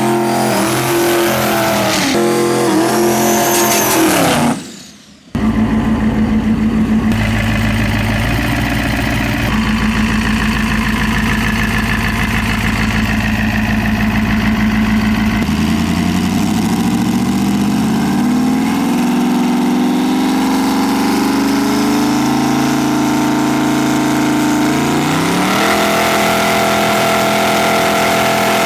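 Diesel dragster engine running loud, blipped up and down several times, then after a short break a steady pulsing run that climbs slowly in pitch as the revs build.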